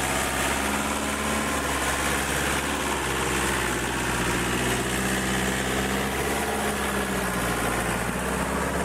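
Fiat 80-90 tractor's diesel engine running steadily, its speed drifting slightly up and down.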